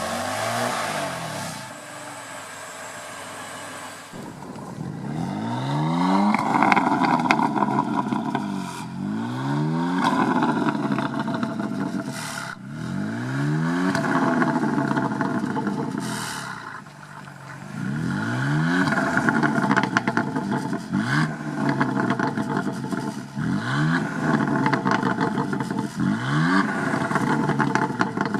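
BMW M4 Competition's twin-turbo inline-six, its secondary catalytic converter core removed and its exhaust valves closed, blipped in a series of light revs. The revs start about four seconds in and come every two to three seconds, each rising quickly and falling back toward idle.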